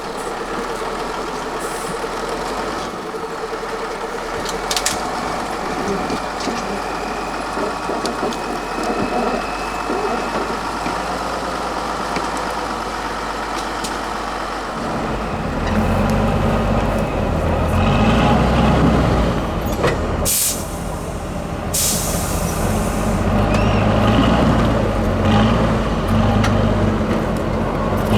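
A heavy 8x8 trial truck's diesel engine running steadily, then working harder and louder about halfway through. Two short sharp hisses of released air, like air brakes, come a few seconds after that.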